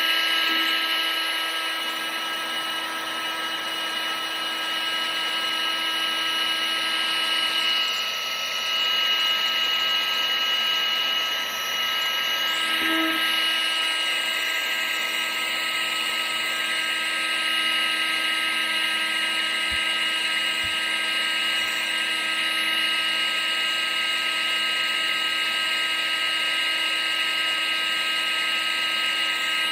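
Electric appliance motor, of a vacuum cleaner or hair dryer kind, running continuously: a steady high whine over rushing air, unchanging in level.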